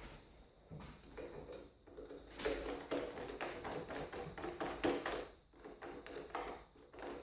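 Rapid, irregular metallic taps and clinks with a light ringing, like metal tool parts being handled and fitted together. It starts faintly and becomes busier after about two seconds.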